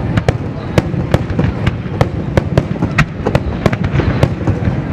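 Fireworks going off in quick succession: irregular sharp bangs and cracks, about two to three a second, over a continuous low rumble of distant bursts.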